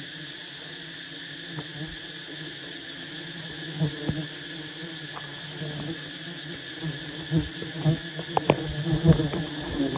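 Steady insect droning, with scattered clicks and low knocks from about four seconds in.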